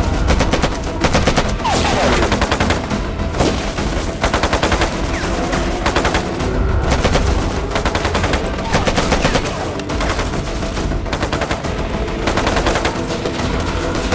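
Film sound effects of a firefight: repeated bursts of rapid automatic machine-gun fire mixed with scattered rifle shots throughout.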